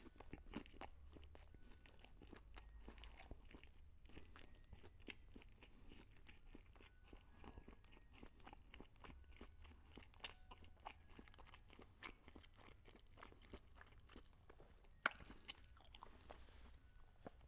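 Faint, close-miked chewing of a mouthful of crispy fried chicken sandwich: soft irregular crunches and wet mouth clicks as the bite is worked down. One sharper click comes near the end.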